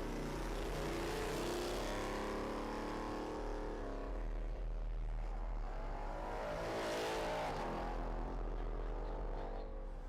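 Car engine accelerating hard and passing, its pitch climbing twice as it pulls through the gears, loudest about seven seconds in.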